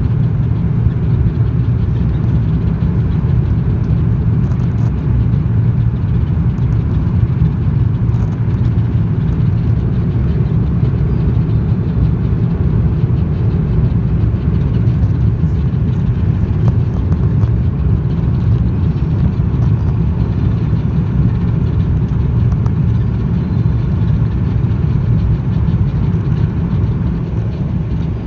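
Steady low rumble of an Airbus A330 airliner's cabin in flight: engine and airflow noise, even in level, with no distinct events.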